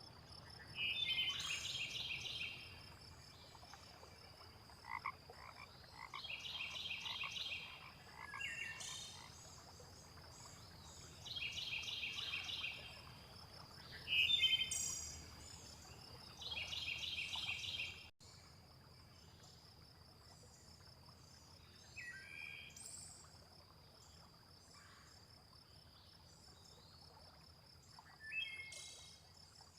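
Frogs croaking in rapid pulsed calls, each lasting a second or two and repeating about every five seconds through the first half, then once more near the end. Under them runs a steady high insect trill, and short bird chirps come in now and then.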